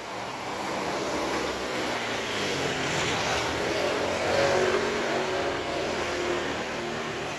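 A motor vehicle passing close by. Its engine and tyre noise grows louder to a peak about four and a half seconds in, then fades.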